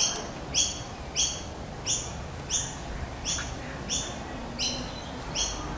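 A bird calling over and over: a short, high note repeated evenly about one and a half times a second, nine calls in all, over a low, steady background rumble.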